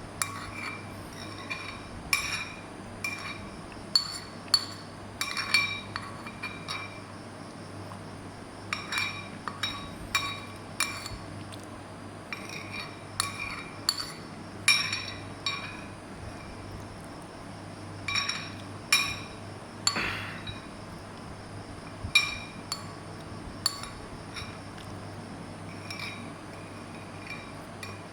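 A utensil clinking again and again against a bowl while food is mixed, irregularly, often two or three taps close together; each strike rings at the same pitch. A steady low hum runs underneath.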